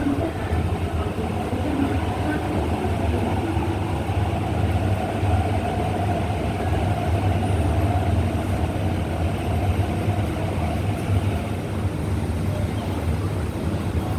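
MTR East Rail line R-train running, a steady low rumble with a faint whine through the middle.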